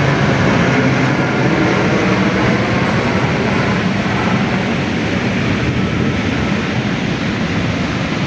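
Helicopter flying over: a steady mechanical drone over a rushing noise, easing a little after the middle.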